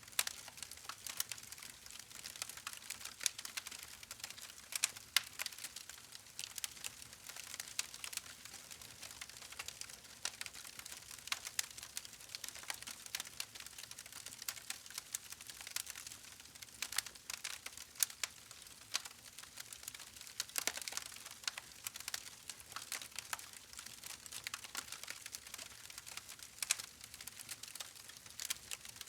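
Wood fire crackling steadily, with a dense run of irregular sharp pops and snaps over a soft hiss.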